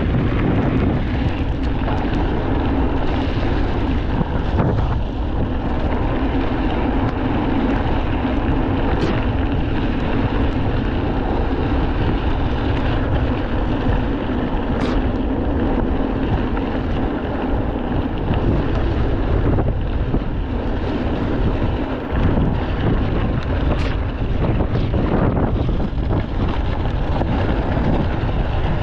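Steady rush of wind on the action camera's microphone and rumble from an electric mountain bike being ridden over a wet trail, with a few sharp clicks and rattles along the way.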